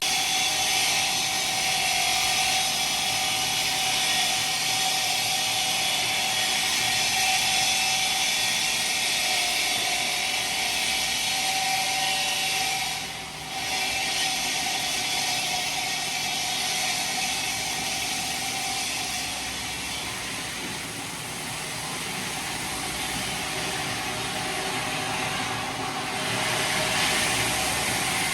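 Stone-processing machinery running steadily: a constant whine over a loud hiss, with a short drop in level about thirteen seconds in.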